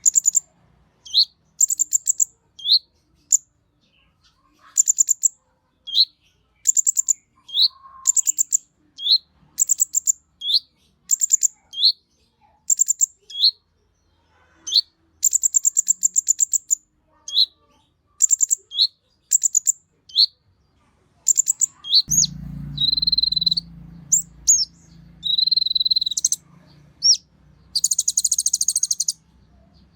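Konin bird singing: a short rapid chattering trill followed by a quick rising note, repeated about once a second. About two-thirds of the way through, a low background hum comes in and the song changes to held whistled notes and dense buzzy trills.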